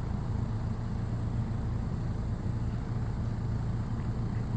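Steady low hum of a running engine, unchanging throughout, with a faint thin high-pitched hiss above it.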